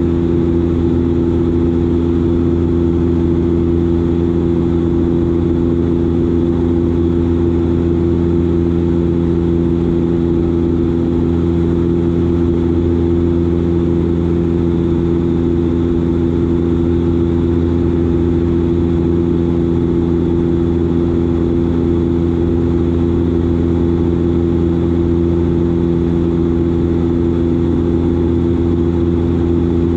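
Dash 8 Q400 turboprop in flight: the steady drone of its Pratt & Whitney PW150A engines and six-blade propellers. It is a low hum made of several steady tones over an even rush of airflow noise, unchanging in pitch and level.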